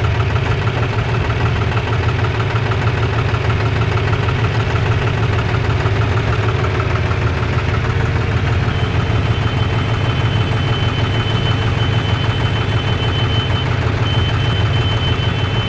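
Heavy diesel engine running steadily at a low, even speed. A faint thin high whine joins about halfway through.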